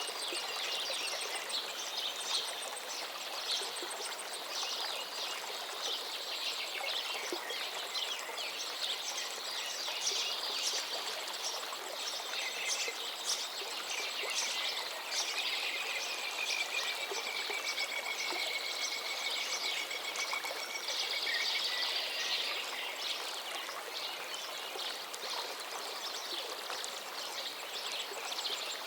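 River water flowing steadily, with songbirds chirping and singing over it throughout; one bird gives a longer drawn-out whistle about halfway through.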